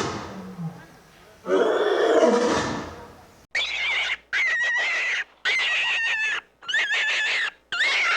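An animal's roar, then from about three and a half seconds a run of short, evenly spaced calls with a steady high tone, each starting and stopping abruptly.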